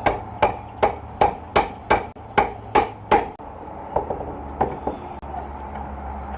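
Hammer blows on a nailed wooden board being knocked apart: about nine quick, even strikes, a little over two a second, then a pause and a few lighter knocks.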